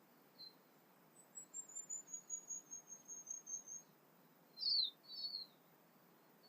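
Songbird singing at dawn: a quick run of thin, very high notes, about five a second, stepping gradually down in pitch for over two seconds. About a second later come two louder, lower, downslurred notes.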